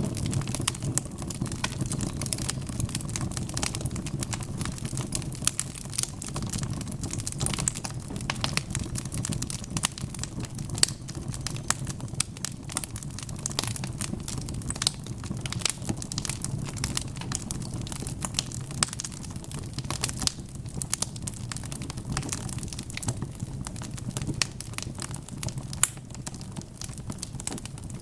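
Log fire in a fireplace crackling: many irregular sharp snaps and pops over a steady low rush of burning.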